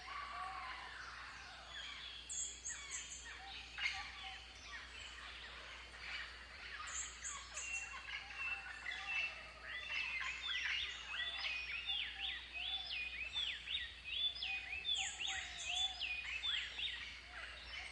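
Several birds calling at once: a busy chatter of quick sweeping whistles that grows denser in the second half, with a short high rasping trill heard three times.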